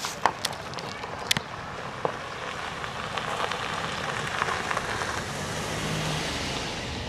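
A passing vehicle's road noise swelling and fading, with a few sharp clicks in the first two seconds.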